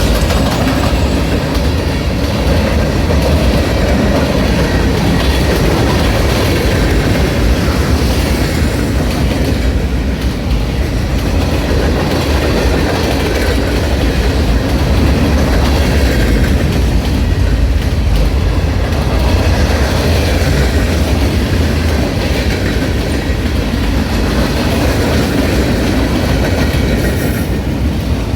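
Norfolk Southern freight train's cars rolling steadily past, a loud continuous rumble of wheels on rail with clickety-clack.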